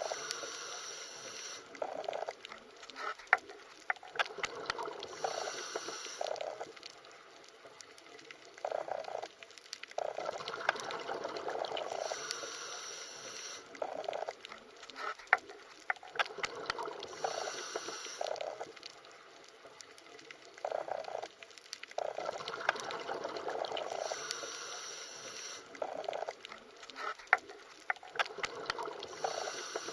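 Underwater water sounds that swell and fade every few seconds in a repeating pattern, with scattered sharp clicks.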